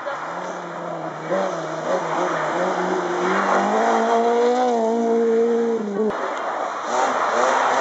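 Rally car engine running hard at high revs as the car drives past at speed, its pitch climbing and then holding. It cuts off suddenly about six seconds in, and another car's engine follows at a lower pitch.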